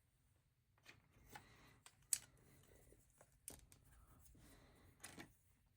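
Plastic LEGO bricks being handled and pressed together: faint scattered clicks and rustling, with one sharper click about two seconds in.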